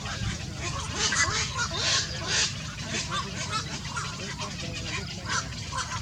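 Small yellow pet birds calling in quick, harsh chirps, busiest and loudest from about one to two and a half seconds in, over a steady low hum.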